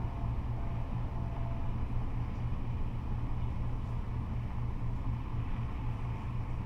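Freeway traffic, cars and trucks passing in a continuous stream: a steady, low rumble of engines and tyres.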